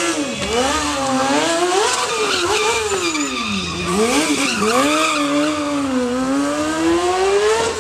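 Motorcycle engine revving up and down again and again, its pitch rising and falling every second or so, with tyre skid noise from the bike drifting.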